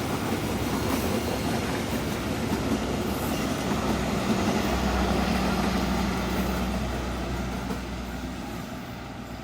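A passenger train passing with a steady rumble and wheel noise, dying away near the end as it moves off.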